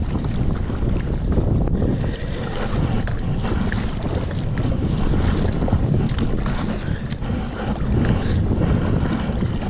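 Wind buffeting a GoPro's microphone as a steady low rumble, with water splashing and lapping against a kayak's hull.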